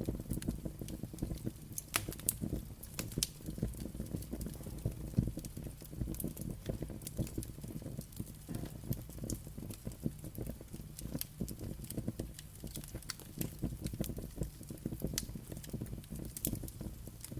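Wood fire burning, with a steady low rumble and many irregular crackles and sharp pops.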